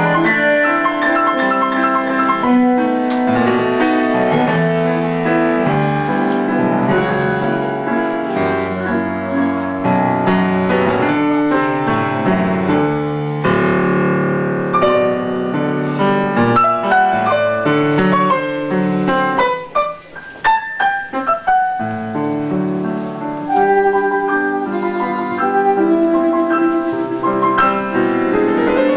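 Tango played live by a piano and bandoneon duo: full chords and melody lines, thinning briefly to a few short, detached notes about twenty seconds in before the full texture returns.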